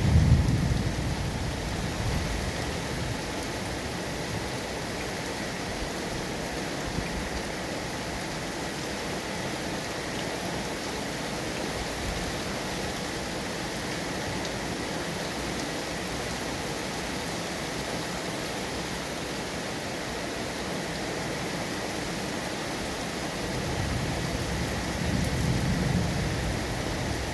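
Steady rain falling. A low rumble of thunder fades away over the first couple of seconds, and another low rumble swells and fades near the end.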